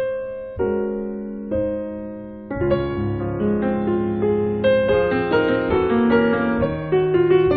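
Background piano music: slow, sparse chords that fade between strikes, then a busier run of notes with a bass line from about two and a half seconds in.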